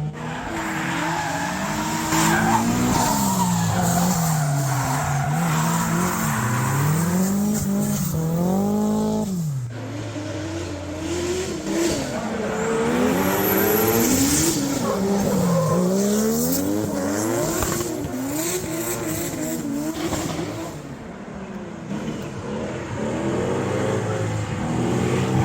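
Drift cars' engines revving up and down over and over as the throttle is worked, with tyres squealing and skidding. About nine and a half seconds in, the revs fall away to a low steady note for a couple of seconds, then the revving starts again.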